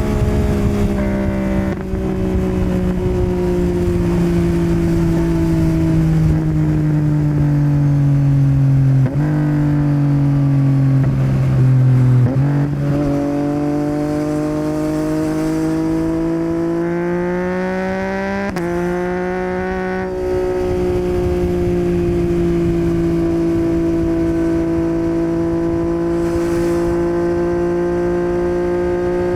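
2021 Yamaha MT-09's inline-three engine running through a Yoshimura R77 exhaust under way. Its note sinks slowly, climbs steadily from about halfway, and settles into an even cruise for the last third, with a few abrupt steps in pitch along the way.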